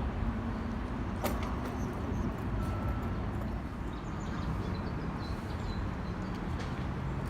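Steady low outdoor rumble of background noise, with a single sharp click about a second in and a few faint high chirps later on.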